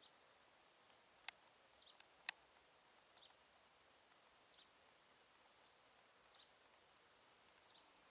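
Quiet outdoor air with a bird giving the same short, high, slightly falling chirp over and over, about once every second or so. Two sharp clicks a second apart come near the start.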